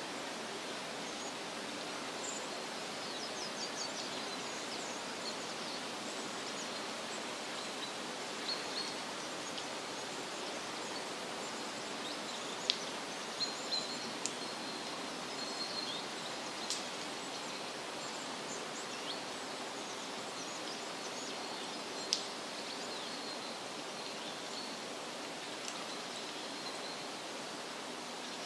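Forest ambience: a steady rushing hiss, like a stream or wind in the trees, with faint high bird chirps now and then and a few sharp ticks.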